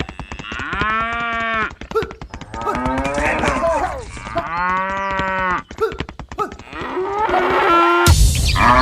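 Cattle mooing: several long calls, each about a second, one after another, with a rapid clicking going on underneath.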